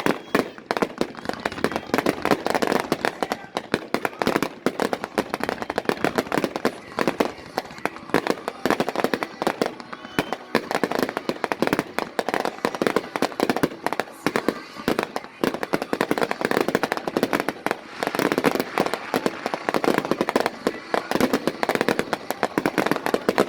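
Fireworks going off in a rapid, continuous barrage of bangs, pops and crackles with no pauses between them.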